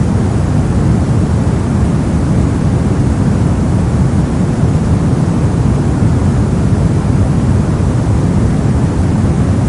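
Steady soft noise for sleep and study, a constant deep hiss heaviest in the low end with little in the highs, not changing at all.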